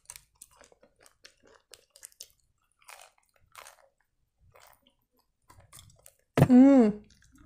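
Close-miked chewing and biting of a crisp fried cheburek, with small crackly crunches and wet mouth sounds. Near the end comes one short, loud voiced sound from the eater.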